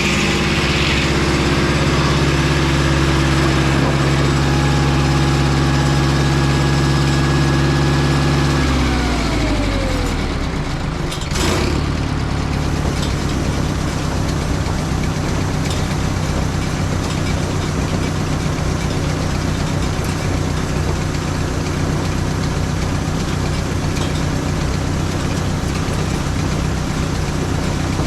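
Mobile Dimension sawmill's engine running steadily at speed, then winding down in pitch about nine seconds in, with a sharp click a couple of seconds later, and settling to a rough idle.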